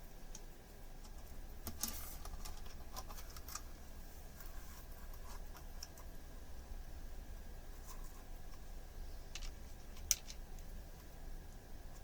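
Hands handling small 3D-printed plastic parts: scattered light clicks and taps, with one sharper click about ten seconds in.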